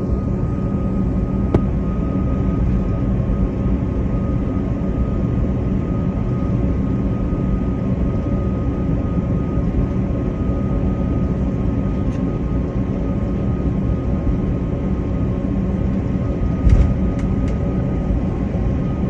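Aircraft engines droning steadily with a constant whine, as the aircraft comes in to land on snow. A short low thump comes near the end, followed by a few sharp clicks.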